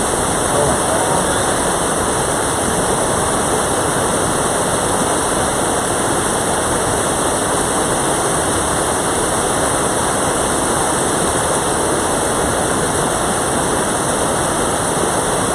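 Mountain stream rushing steadily over rocks, running high after rain.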